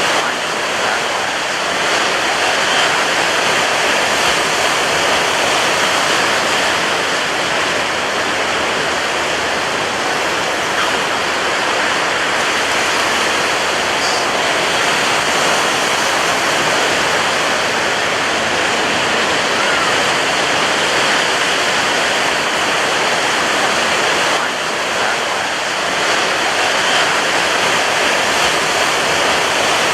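Ocean surf breaking on a beach: a dense, steady rush of water that barely rises or falls, dipping only briefly near the end.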